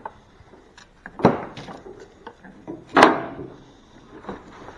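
Knocks and clicks of parts being worked loose and handled on a truck's front end: two louder knocks, about a second and three seconds in, with lighter clicks between.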